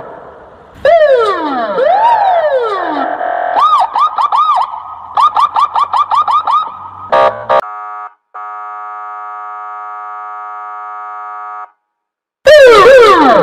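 Electronic police siren patterns in sequence: falling wail sweeps, then a fast yelp of about four to five cycles a second, a few short blasts, and a steady buzzing horn tone of about three seconds. After a short gap, falling sweeps start again near the end.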